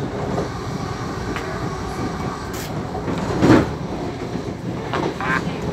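Class 700 Thameslink electric train running at speed, heard from inside the carriage: a steady rumble of wheels on the track, with one short louder bump about three and a half seconds in.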